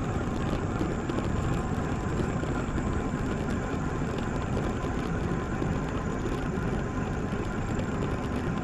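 Steady rushing noise of wind and road while riding a road bicycle, heard through the camera's microphone.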